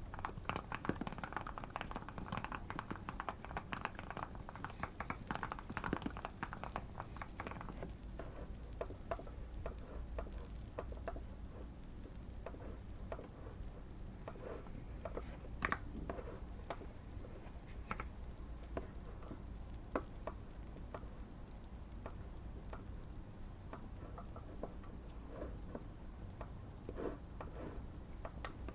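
Typing on a Keychron Q1 mechanical keyboard: a fast run of keystrokes for the first several seconds, then scattered key presses. A fireplace crackles lightly underneath.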